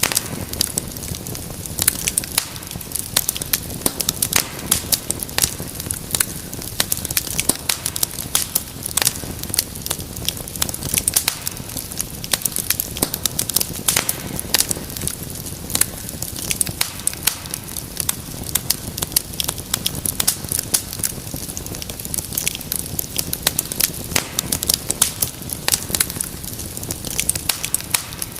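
Wood fire crackling steadily: many irregular sharp pops and snaps over a low, even rumble of burning.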